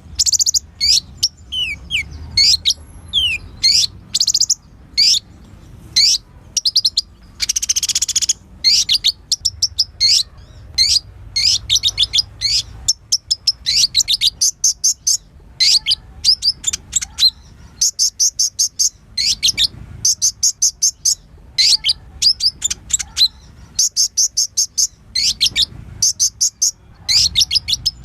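Kolibri ninja sunbird singing a fast, high-pitched, varied song: rapid runs of sharp chips and trills, broken by short pauses.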